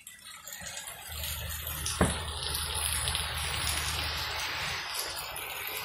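Heavy rain pouring down: a steady hiss that swells in over the first second, with a single sharp tap about two seconds in.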